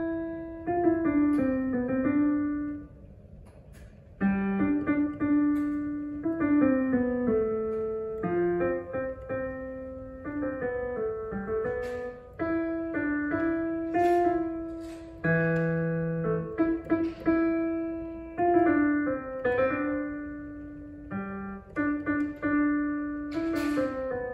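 Piano playing a slow melody of separate notes that ring and fade, with a short pause about three seconds in.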